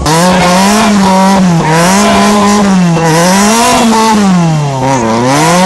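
Rally car's engine revving up and down over and over, about five times, the revs climbing, holding briefly, then dropping again.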